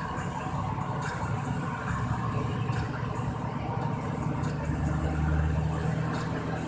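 Truck engine running steadily under way, a low hum.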